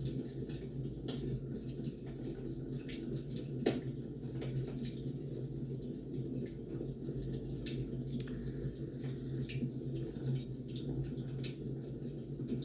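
Wood fire crackling: irregular sharp pops and snaps over a steady low rumble, with one louder pop a little under four seconds in.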